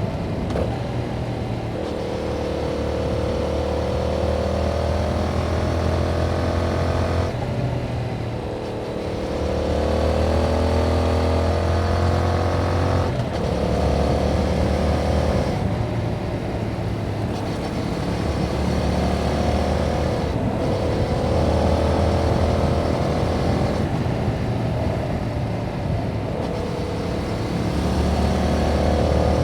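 Yamaha MT-07's 689 cc parallel-twin engine through its stock exhaust, under way. The engine note climbs steadily under throttle, then drops back as the throttle closes or a gear changes, about five times over the stretch.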